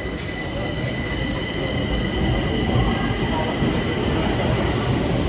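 Stockholm Metro train running on the track: a steady rumble with several high whining tones held above it, growing louder about two seconds in.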